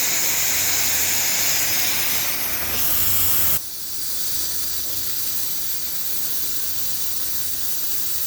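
Plasma cutting torch on a SteelTailor Dragon III CNC cutting machine, a loud steady hiss that cuts off abruptly about three and a half seconds in, leaving a quieter steady hiss.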